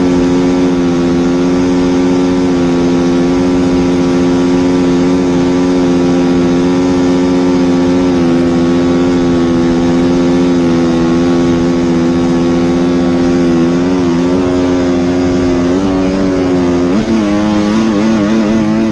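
An engine running loud and steady at a constant speed, its pitch wavering and dipping over the last few seconds.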